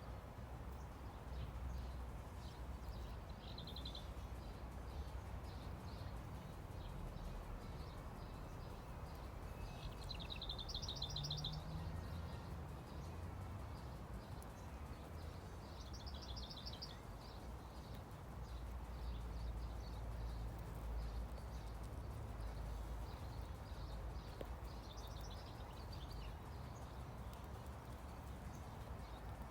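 A songbird singing short, rapid trills four times, over a steady low outdoor rumble.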